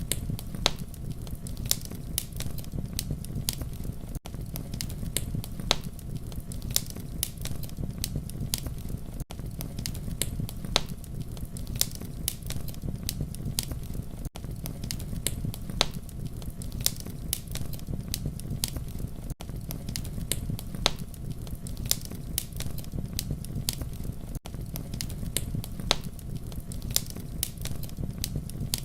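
Wood campfire crackling: a steady low rumble of flames with frequent sharp pops and snaps, broken by a very brief drop in sound about every five seconds.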